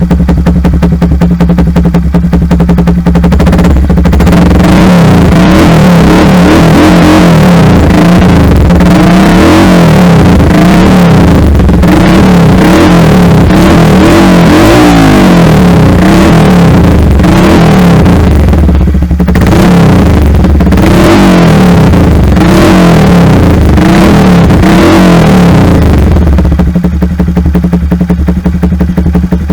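Honda Monkey 125's single-cylinder four-stroke engine running loud through a full Akrapovič exhaust, the engine speed rising and falling repeatedly. It eases off briefly about two-thirds of the way in and again near the end.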